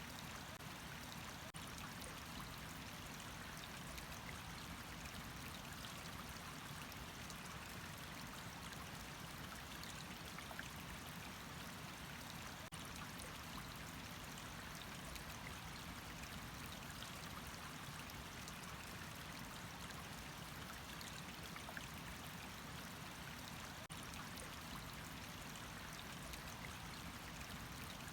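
Water running steadily, a continuous even rush of flowing water.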